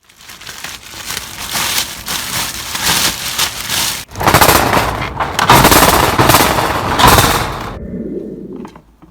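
Heavy rain pelting down, a dense crackling rush that grows louder about four seconds in and cuts off suddenly near the end.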